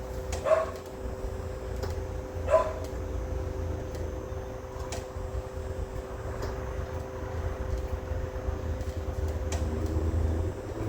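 A dog barking twice, about half a second and two and a half seconds in, over a steady low hum.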